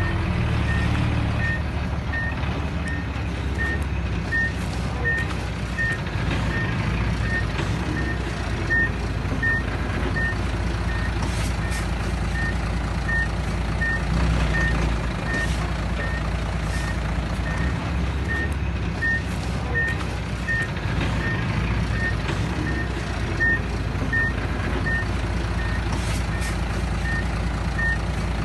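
Reverse alarm of a heavy earth-moving machine backing up: a short high beep repeating evenly about one and a half times a second, over the steady low rumble of a diesel engine.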